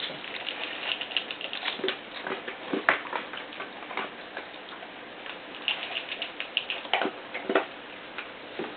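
Three-week-old puppies moving about: irregular small clicks and taps that come in clusters, with no whines or barks.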